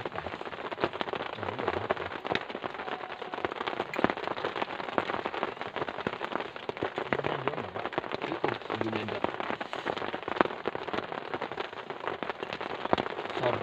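Heavy, steady rain falling on a surface: a dense crackle of countless drops, with some louder single drop hits now and then.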